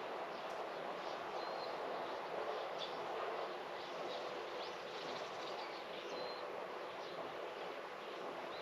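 Small birds chirping with short, scattered high calls over a steady background hiss of outdoor ambience.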